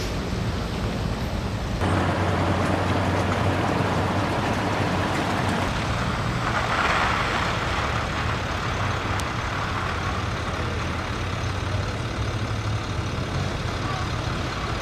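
A motor vehicle's steady engine hum under road noise. The noise jumps up abruptly about two seconds in and swells briefly around seven seconds.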